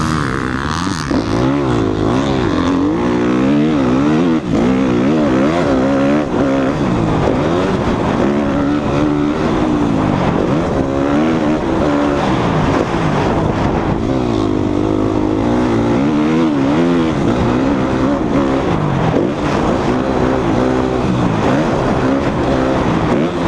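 A 2014 Suzuki RM-Z250's single-cylinder four-stroke engine running hard around a motocross track. It revs up and falls back again and again as the throttle is opened and closed.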